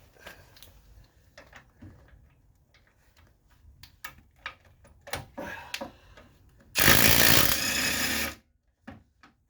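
Impact wrench hammering on a front suspension bolt in one burst of about a second and a half near the end. Before it come a few light clicks and knocks of tools being handled.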